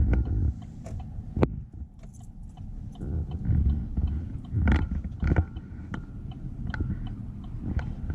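Low rumble of a vehicle on the move, heard from inside the cab, with scattered clicks, knocks and rattles; the sharpest knocks come about a second and a half in and twice around five seconds in.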